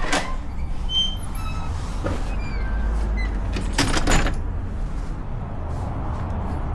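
City traffic ambience: a steady low rumble of vehicles, with a few short high squeaks in the first half and a loud hissing whoosh about four seconds in.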